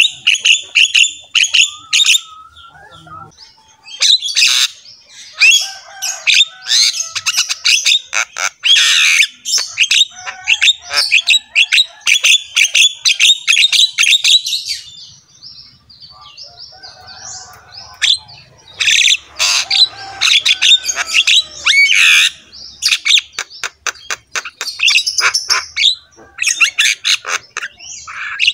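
Birds chirping and calling rapidly in dense bursts of high notes, with a couple of short lulls.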